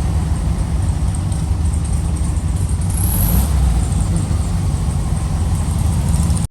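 Volkswagen car engine running on the road with road noise, a steady low rumble.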